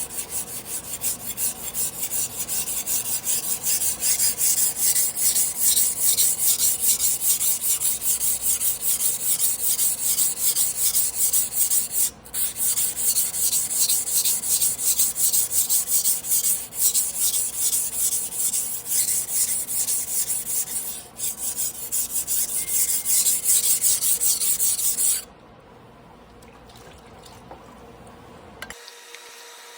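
A carbon-steel Damascus sashimi knife being ground by hand on a whetstone, rapid rhythmic back-and-forth strokes of steel rubbing on stone, as a rusted, misshapen blade is reworked. The strokes pause briefly about 12 and 21 seconds in and stop about 25 seconds in.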